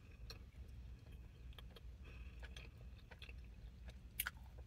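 Faint mouth sounds of a person chewing a bagel: soft, scattered clicks, with a sharper click about four seconds in, over a low steady hum.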